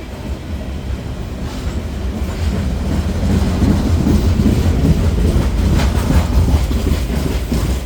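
Loaded grain cars of a long freight train rolling slowly past, with a heavy steady rumble that grows louder partway through. Sharp wheel clicks come near the end.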